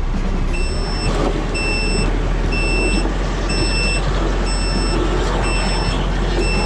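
Vehicle backup alarm beeping about once a second over a running engine.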